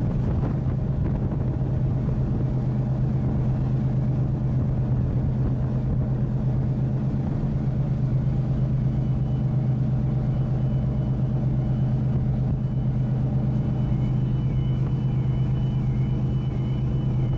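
Passenger ferry Pride of Burgundy's engines and machinery running with a steady low drone. About halfway through, a faint steady high tone joins, and a faint warbling tone is heard near the end.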